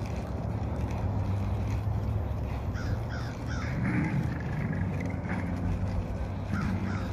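Bird calling in short runs of harsh falling caws, about four together a few seconds in and two more near the end, over a steady low hum and outdoor noise.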